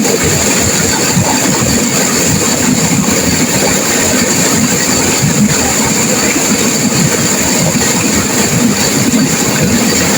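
Turbulent river water crashing and rushing over rocks, a loud, steady, unbroken wash of noise.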